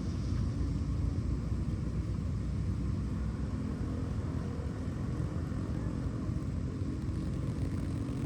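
Steady low rumble of floodwater rushing into a storm drain, with no breaks or distinct events.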